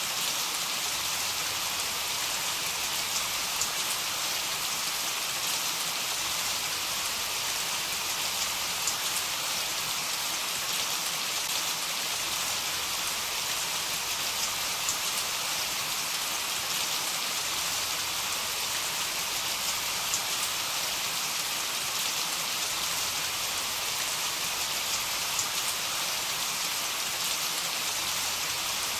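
Steady heavy rain falling, an even hiss with scattered drop patter; no thunder.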